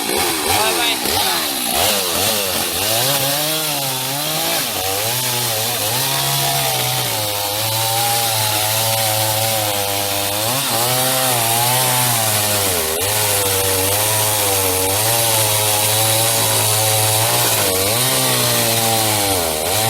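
Chainsaw cutting up a large tree, its engine running near full throttle with the pitch dipping and rising repeatedly as the chain bites into the wood and frees up again.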